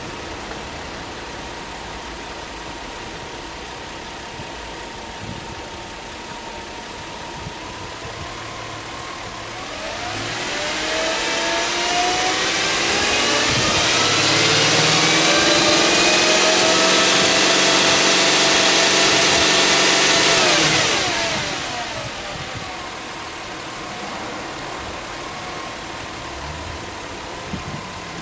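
Subaru Legacy B4 3.0R's EZ30 3.0-litre flat-six idling, then free-revved with the car standing. About ten seconds in, the engine speed climbs steadily over a few seconds and is held high for about seven seconds. It then drops quickly back to a steady idle.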